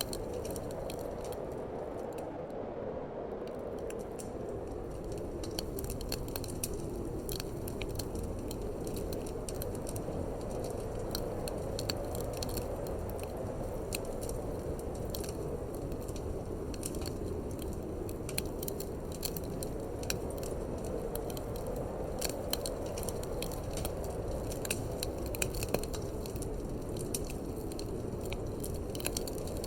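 Wood fire crackling with many small sharp pops over a steady low rush of wind.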